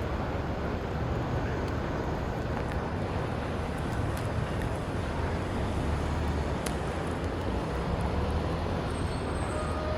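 Steady city street noise: a low rumble of traffic mixed with wind, with a couple of faint clicks.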